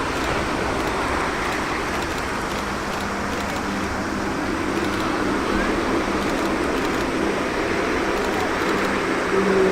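Jet engines of a Boeing 747-8F freighter running, a steady rushing roar with a low hum underneath that grows louder near the end.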